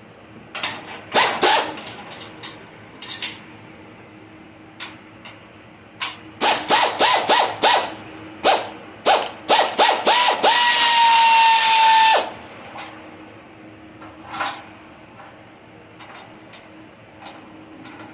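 A handheld power tool triggered in a string of short blips, then run steadily for about two seconds before it cuts off, with a few clicks and knocks around it.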